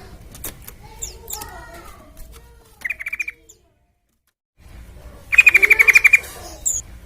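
Sooty-headed bulbul (trucukan) song from a lure recording. Soft chirps and warbles give way to a short trill about three seconds in, then a second of silence. Near the end comes a loud, rapid rattling trill of about a dozen notes.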